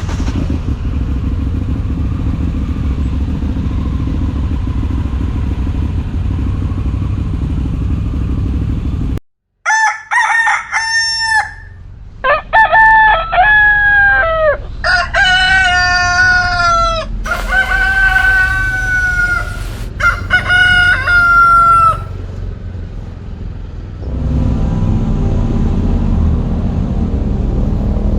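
Steady motorcycle engine rumble that cuts off abruptly after about nine seconds. Then several roosters crow over and over, one after another, for about twelve seconds. The engine rumble comes back near the end.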